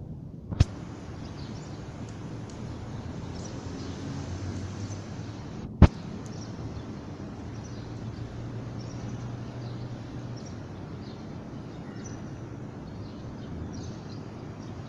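Steady outdoor background noise with faint, short high chirps scattered through it, broken by two sharp clicks, one about half a second in and one near six seconds in.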